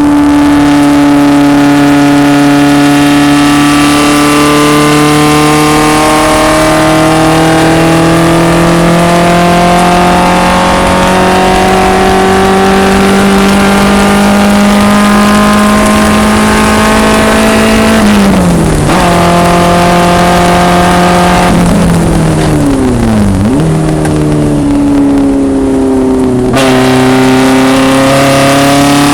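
1974 BMW 2002 racecar's engine running hard, its pitch climbing slowly for about eighteen seconds. The revs then fall sharply, dip and rise again a few seconds later, and climb once more near the end.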